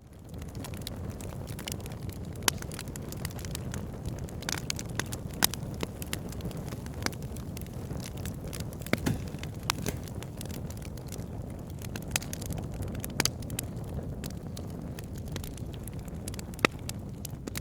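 Wood fire crackling: irregular sharp pops and snaps, several loud ones standing out, over a steady low rumble of burning.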